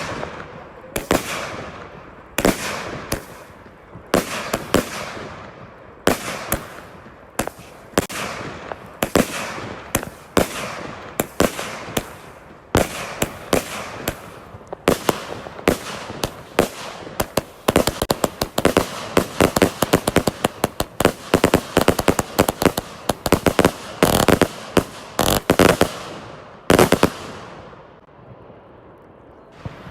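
Fireworks going off in a long run of sharp bangs and crackles. The bangs come in quicker succession past the middle, then die down briefly near the end.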